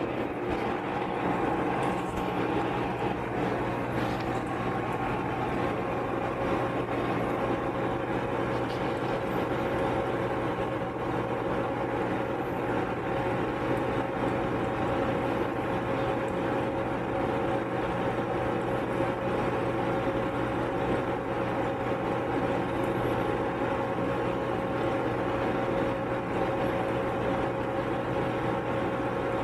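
Microwave oven running on high: a steady, even hum that holds unchanged throughout.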